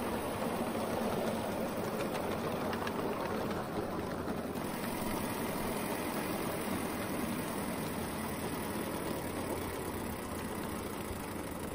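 Small propane-fired 7.5-inch-gauge live steam locomotive with a vertical boiler and vertical cylinders running steadily along the track, its exhaust sounding more like a gasoline engine than a steam engine.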